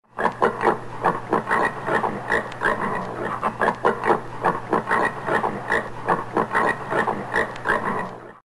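Common warthog grunting in a rapid run of short grunts, about three or four a second, with a steady low hum beneath.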